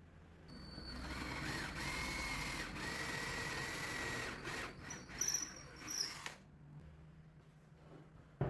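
Electric drill running steadily with a high whine for about six seconds, with a few short high squeals near the end, then cutting off suddenly.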